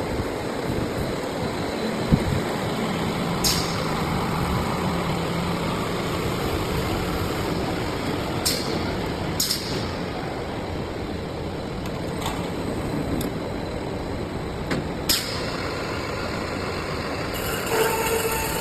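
Broom-handle pipe making machine (tube mill with plastic coating) running: steady mechanical noise with a low hum in the first few seconds and a few short, sharp high hissing bursts.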